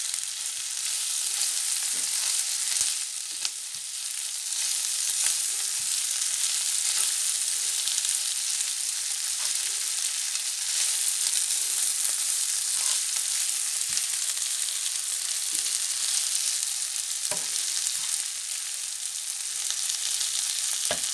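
Lardons and sliced onions sizzling steadily in butter in a frying pan, stirred with a spatula that makes faint scrapes and taps against the pan.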